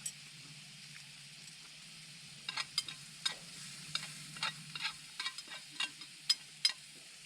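A steady sizzling hiss with a low hum beneath it. From about two and a half seconds in, about a dozen sharp, irregular pops and crackles break over it.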